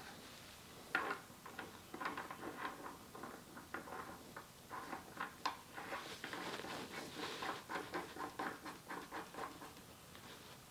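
Small metal hydraulic fittings being handled and sorted, a run of quick, irregular clicks and rattles from about a second in.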